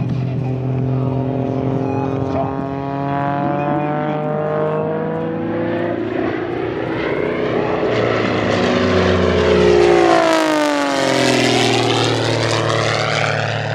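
Pitts aerobatic biplane's propeller engine flying past. It grows louder to its peak about ten seconds in, and its pitch sweeps down as it goes by.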